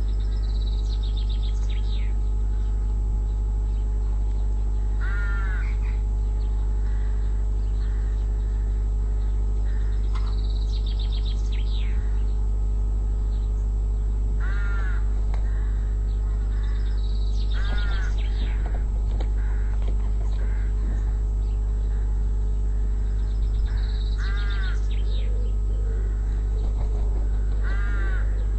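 A crow cawing, about five single harsh caws spaced several seconds apart, with higher-pitched calls from another bird in between, over a steady low hum.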